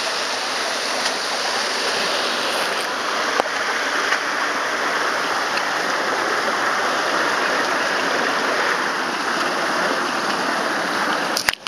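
Steady rush of waterfall water, with a few faint knocks; the sound drops out briefly near the end.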